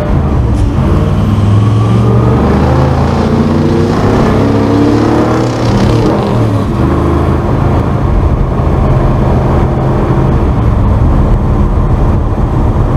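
Old truck's engine running while driving, its pitch rising and falling over the first several seconds as it pulls and shifts, then holding steadier.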